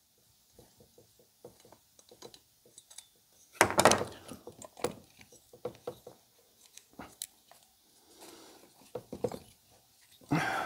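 Scattered light clicks and knocks of tools and chainsaw parts being handled on a bench, with a louder thunk about four seconds in and another louder knock near the end.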